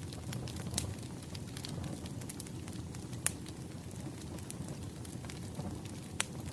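Wood fire crackling: a steady low rumble of burning logs with scattered sharp pops, the loudest about halfway through and another near the end.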